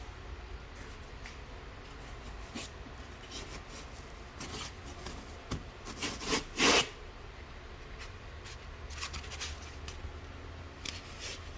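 Scattered rubbing and scraping handling noises, with a cluster of louder scrapes a little past the middle, over a steady low hum.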